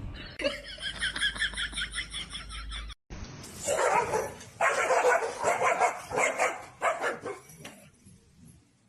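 A dog making a quick run of short, high, evenly spaced yips. After a sudden break about three seconds in, a series of louder barks dies away near the end.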